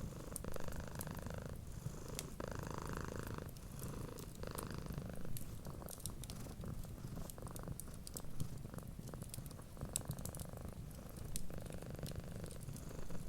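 A cat purring steadily, its purr swelling and easing with each breath, with the small sharp crackles of a fireplace fire scattered through it.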